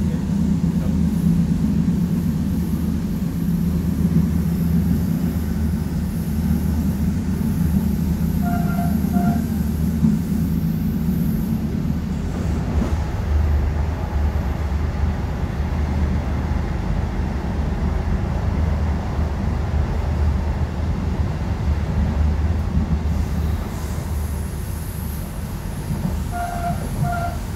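Regional passenger train running, heard from inside the carriage as a steady low rumble. A faint pair of short toots comes about nine seconds in and another near the end, typical of the train's horn.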